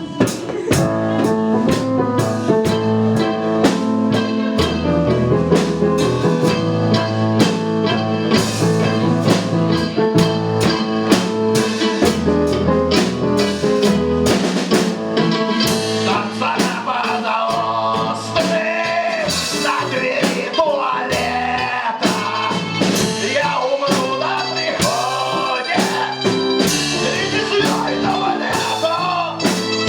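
Live band playing a blues-rock song with drum kit, bass and keyboards. About halfway in, a wavering lead melody comes in over the band.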